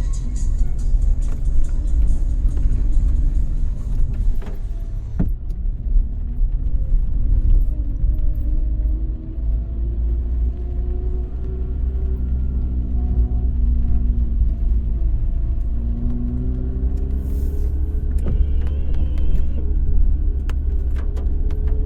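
Car driving on a city road: a deep, steady rumble of engine and tyres, with the engine note rising and falling as the car speeds up and slows. A brief higher tone sounds near the end.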